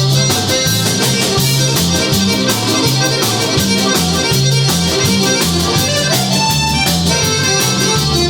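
Live band playing an instrumental passage: guitar, bass and drums with sustained lead notes over a steady beat.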